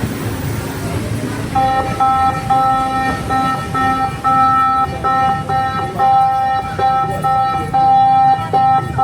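Low rumble of street traffic. From about a second and a half in, a repeating pattern of steady high tones at a few fixed pitches switches on and off over it.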